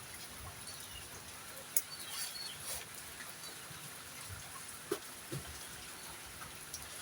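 Faint scattered clucks and calls of domestic fowl over a steady hiss, with a couple of sharp knocks.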